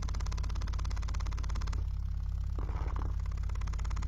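Cerwin Vega Stroker 18D4 subwoofer playing a very low test tone, with a fast, even ticking in step with the cone's strokes, about 17 ticks a second. The ticking stops for about a second partway through, with a brief rustle, then resumes. The ticking comes from cracked epoxy on the back of the worn cloth surround.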